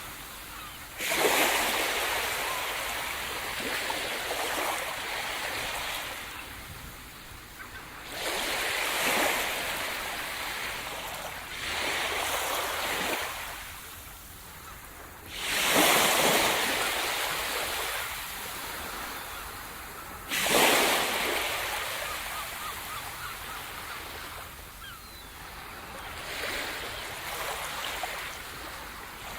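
Sea surf breaking on a shore: about six waves crash in, each a sudden rush of noise that washes out and fades before the next, every four to five seconds.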